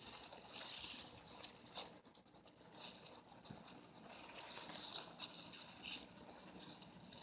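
Grasses and plant stems rustling in the hands as they are bound onto a wreath, in an irregular run of crisp, scratchy rustles.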